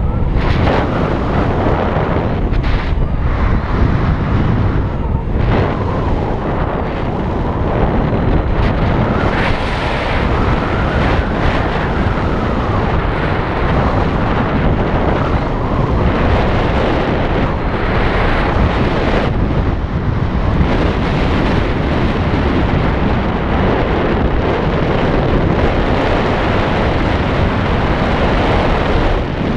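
Loud wind buffeting the microphone in flight, a continuous rushing roar that rises and falls unevenly.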